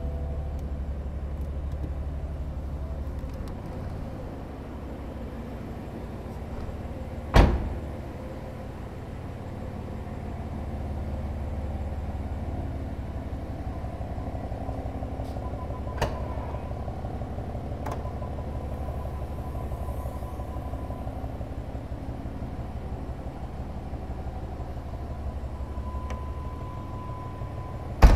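BMW M4 Cabrio's 3.0-litre twin-turbo straight-six idling steadily. A sharp thud comes about seven seconds in, a lighter click near the middle, and the loudest thud at the very end.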